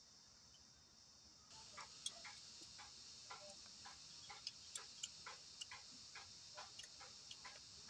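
Faint, quick mouth clicks and smacks of someone chewing cooked chicken with an open mouth, about three a second, over a steady faint hiss that comes in after about a second and a half.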